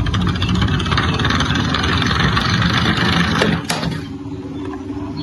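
A toy vehicle running with a rattling rumble and a fast fine clatter. Two sharp clicks come about three and a half seconds in, and after that the sound is quieter.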